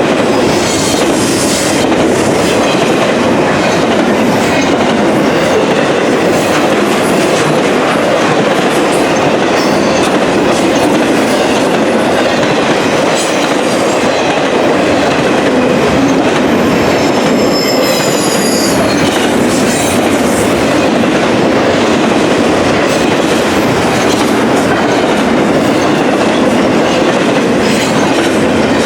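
Freight train cars rolling past close by, a steady loud rumble with the clickety-clack of wheels over rail joints. Wheels squeal briefly at a high pitch a little past the middle.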